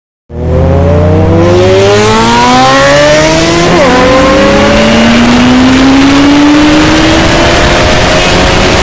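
Yamaha XJ6 motorcycle's inline-four engine with an aftermarket exhaust, accelerating hard. The pitch climbs steadily, breaks at a gear change about four seconds in, then climbs again more slowly.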